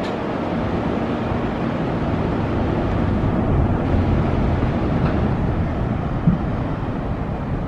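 Road traffic noise: vehicle engines and tyres rumbling by on a city street, swelling gently toward the middle as a vehicle passes.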